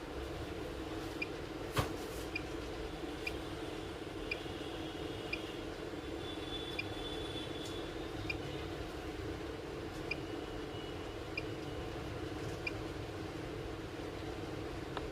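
BiPAP machine's blower running with a steady hum. Short high chirps come about once a second, and there is a single sharp click about two seconds in.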